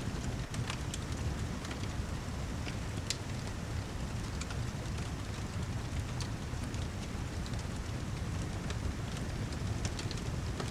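Rain and fireplace ambience: a steady low rush of heavy rain and fire, with scattered sharp crackles every second or so.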